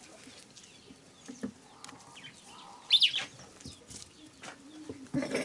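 Quiet farmyard sounds with a few faint knocks, and one loud, short, high-pitched bird call about three seconds in.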